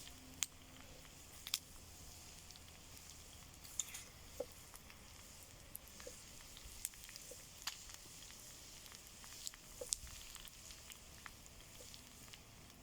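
Wood campfire laid as a 'well' (sticks stacked in a square, log-cabin style) burning and crackling: about a dozen sharp pops and snaps at irregular intervals over a low steady hiss.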